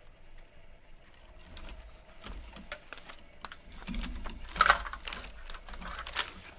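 Hands working on a fluorescent shop-light fixture and its ballast: a run of irregular small clicks and rattles. The loudest is a sharp knock a little past halfway through.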